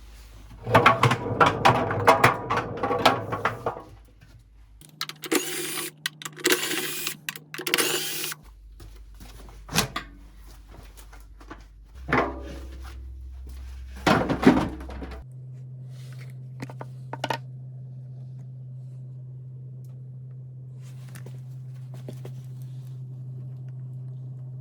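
Workshop repair noises from a washing-machine bearing job: metal clattering and handling, a few seconds of harsh hissing bursts, and several single loud knocks. These give way to a low steady hum with occasional light clicks.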